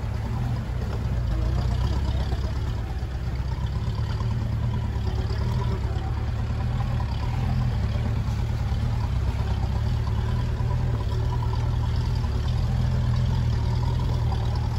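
Land Rover 4x4's engine running steadily on an off-road track, heard from on board as a continuous low rumble.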